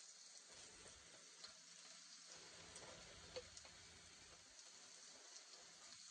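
Faint sizzling of minced beef and onions frying in a pan, with a few small ticks of a wooden spoon stirring, the sharpest about halfway through.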